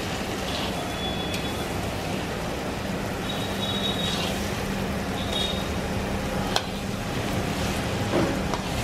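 Soya chunks, drumstick pieces and onions sizzling steadily as they fry in a large iron wok, stirred with a perforated steel ladle. The ladle scrapes the pan a few times and gives one sharp clink about two-thirds of the way through.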